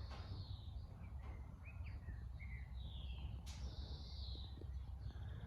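Birds chirping faintly, a scattering of short whistled chirps and falling calls, over a low steady background rumble, with a single sharp click about three and a half seconds in.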